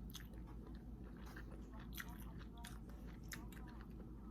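Close-up mouth sounds of someone chewing lobster meat: irregular wet clicks and smacks, over a steady low hum.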